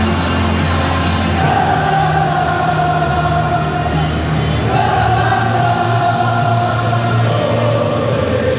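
Football crowd singing a chant together in long, drawn-out notes that shift in pitch every couple of seconds.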